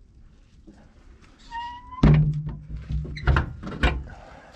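A short rising squeak, then a loud metallic clank that rings with a low hum for over a second, followed by two more sharp knocks.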